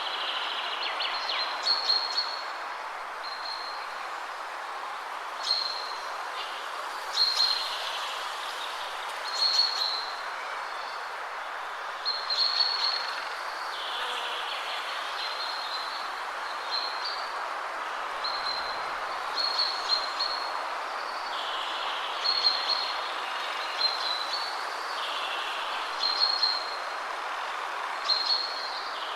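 Wind rustling steadily through trees, with songbirds repeatedly giving short high chirping phrases every second or two.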